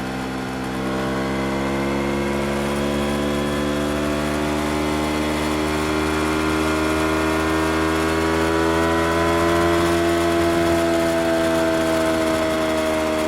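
Yamaha R25's 250 cc parallel-twin engine running steadily. Its pitch rises slowly as the revs climb, then eases off slightly near the end.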